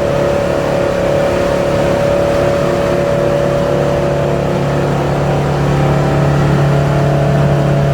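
A 25-foot cabin cruiser's engine running steadily under way, a constant drone that grows a little louder and deeper about five seconds in.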